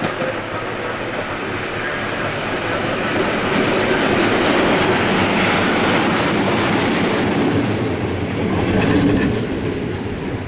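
Passenger train rolling past on the track, wheels clattering over the rails, growing louder over the first few seconds.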